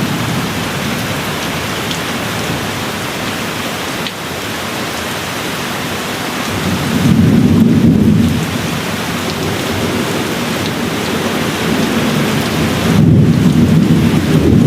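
Steady rain falling, with distant thunder rumbling low twice: a swell about halfway through and another near the end.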